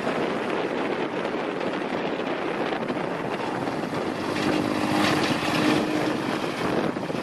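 Small engine running steadily, with a steady pitched tone sounding over it for about two seconds from a little after four seconds in.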